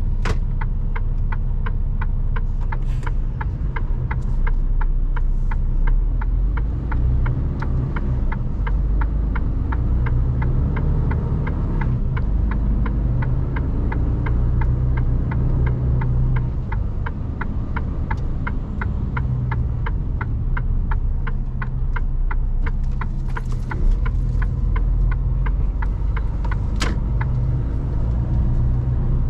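Mercedes Actros truck engine rumbling low, heard from inside the cab while driving, with a steady ticking of about two clicks a second like the turn-signal indicator relay. A sharper click stands out near the end.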